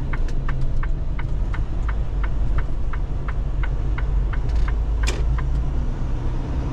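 Semi truck's turn signal ticking in the cab, about three clicks a second, over the steady low rumble of the diesel engine during a slow turn. One brief, sharper sound stands out about five seconds in.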